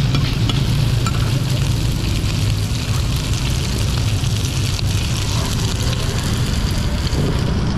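Bột chiên, cubes of rice-flour cake, sizzling in hot oil on a wide flat iron pan, over a steady low rumble.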